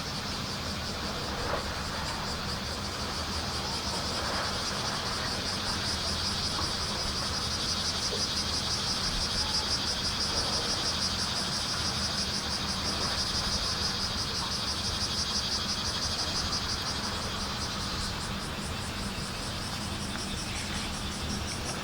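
Bear cicadas (kumazemi) singing in a fast, pulsing high-pitched drone that swells in the middle and eases off about 18 seconds in, over a steady low rumble.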